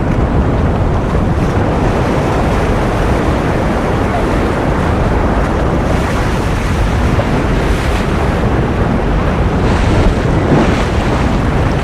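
Ocean surf as a steady, continuous rushing wash, heaviest in the low end, with a couple of brief surges of hiss near the end.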